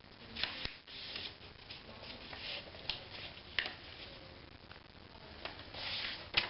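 A sheet of A4 paper being folded by hand, with soft rustling and a few sharp crinkles and taps as the crease is pressed down.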